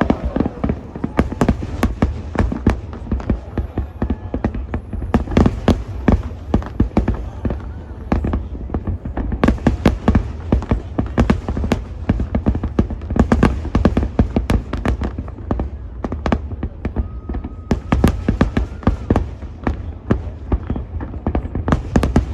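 Large fireworks display: a dense, continuous barrage of bangs and crackling bursts over a deep rumble.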